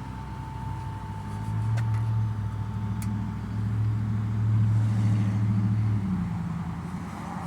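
A passing engine's low, steady drone. It grows louder over the first couple of seconds, holds, then eases off about six seconds in.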